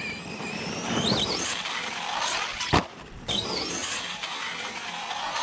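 Arrma Outcast 4S RC truck's brushless motor whining, rising in pitch under throttle, with a sharp thump just under three seconds in, then the whine climbs again.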